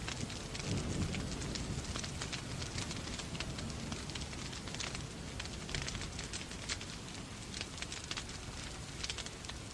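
Wood fire in a fireplace crackling, with irregular sharp pops, over a steady hiss of rain. A low rumble of thunder dies away in the first second or so.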